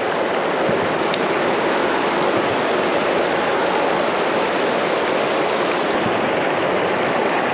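Creek water rushing steadily over rocks, an even hiss-like wash with no break.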